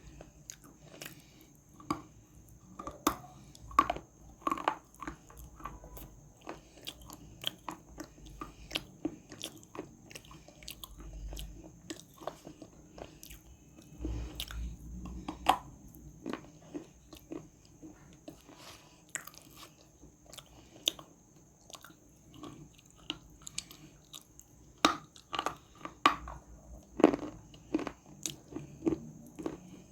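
Dry edible clay being bitten and chewed close to the microphone: a long run of sharp, irregular crunches with crumbly chewing between them. The crunches come in louder clusters a few times.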